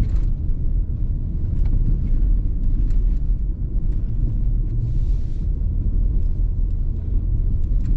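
Steady low rumble of a car driving on a snowy road, engine and tyre noise heard from inside the cabin, with a brief hiss about five seconds in.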